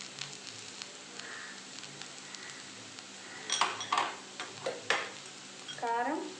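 Raw banana slices frying in oil in a kadai, a steady low sizzle with small crackles. About halfway through comes a cluster of sharp kitchenware clinks, and near the end a brief voice-like sound rising in pitch.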